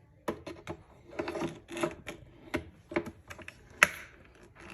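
Irregular light plastic clicks and knocks from the parts of a Nescafe Dolce Gusto Mini Me capsule coffee machine being handled. One sharper knock comes near the end.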